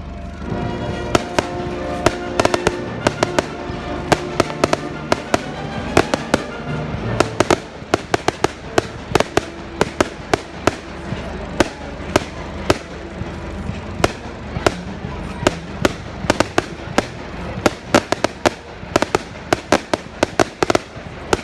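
Fireworks going off in a rapid, irregular string of sharp bangs and crackles, dozens of them, with music playing underneath that is clearest in the first several seconds.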